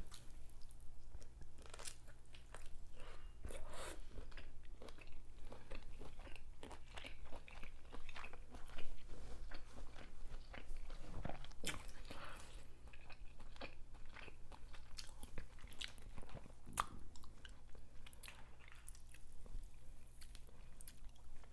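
Close-miked chewing and wet mouth sounds of someone eating juicy lobster tail meat, with irregular smacks and clicks, over a faint steady low hum.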